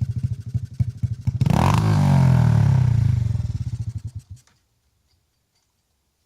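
Dirt bike engine putting at low revs, then revved hard about a second and a half in, its pitch rising and then falling away. The engine sound stops about four and a half seconds in, leaving near silence.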